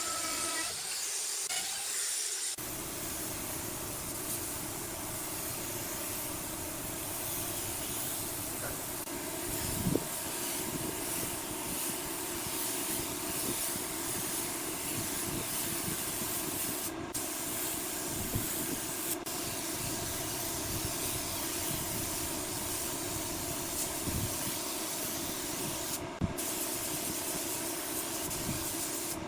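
Steady, continuous hissing with a low machine hum underneath and a few light knocks, starting about two seconds in.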